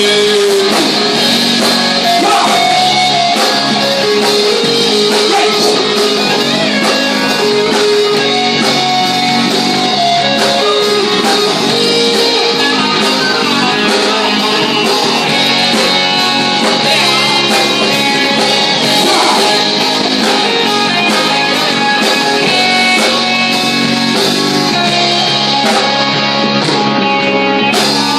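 Live rock band playing loudly, with electric guitar to the fore over bass and drum kit.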